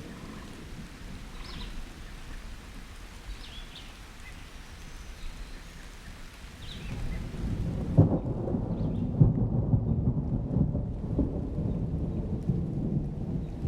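Steady rain with a few short, high bird chirps in the first half. About halfway through, a long roll of thunder builds and keeps rumbling, much louder than the rain.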